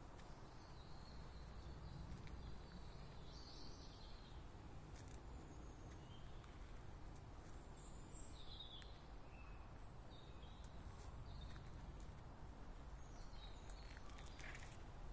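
Faint birds calling now and then, short chirps every few seconds, over a low steady background rumble of woodland air.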